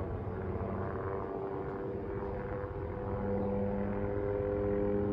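Police helicopter circling overhead: steady rotor chop with a droning engine tone, growing a little louder about three seconds in.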